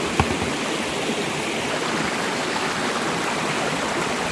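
Rushing river water, a steady even noise, with one short click about a quarter second in.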